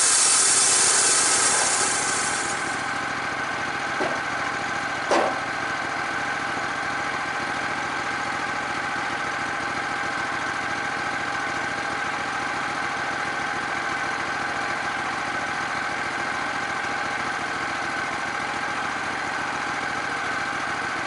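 Portable band sawmill: the blade finishes a cut through wood with a loud hiss that stops about two and a half seconds in. The gas engine then runs on steadily with the blade out of the wood, broken by two short knocks around four and five seconds in.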